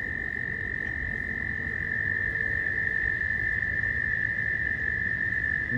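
A chorus of frogs calling from a pond, their trills merging into one continuous, steady high-pitched tone, with a low rumble of wind on the microphone beneath.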